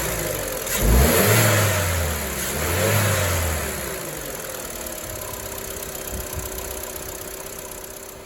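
BMW E87 116i engine blipped twice, the revs rising and falling about a second and three seconds in, then settling to idle and fading out near the end.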